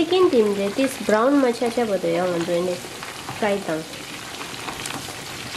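Chicken wings deep-frying in hot oil, a steady sizzle with small crackles as they are turned with chopsticks. A person's voice sounds over it for the first three seconds or so and again briefly about three and a half seconds in.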